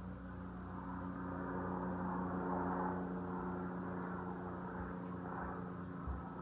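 A steady mechanical hum, like a motor or engine running at constant speed, over a hiss of background noise.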